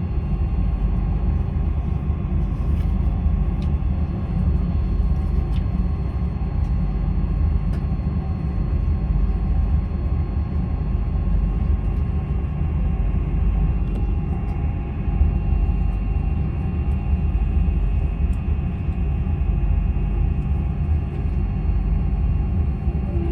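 Steady low rumble of a moving train, with faint steady whining tones above it and a few light clicks.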